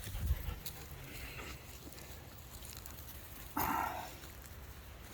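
A dog close to the microphone, with low rumbling in the first half-second and one short noisy sound about three and a half seconds in.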